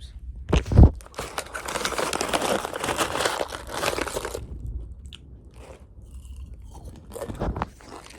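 Close-up eating of toasted coconut chips: a sharp bite just under a second in, then about three seconds of dense crunching, settling into quieter chewing with one more crunch near the end.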